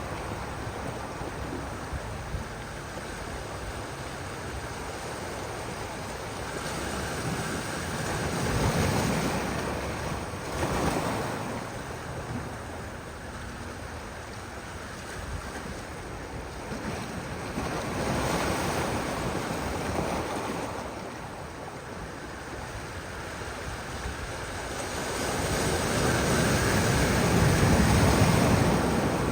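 Ocean surf breaking and washing ashore in slow surges, several waves growing louder and fading, with the loudest near the end.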